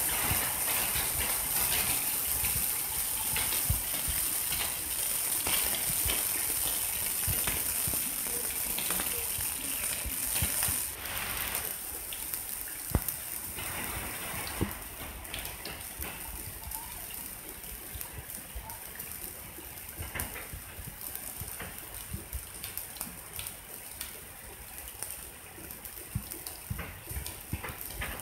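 Rain falling: a steady hiss with scattered drips and patters. It is heavier for the first ten seconds or so, then eases to a softer hiss in which single drops stand out.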